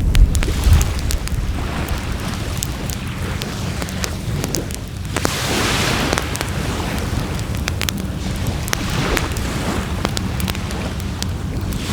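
Wood fire crackling in a Coleman Fire Disc fire pit, with many sharp pops and snaps over a low rumble. A rushing hiss swells about halfway through.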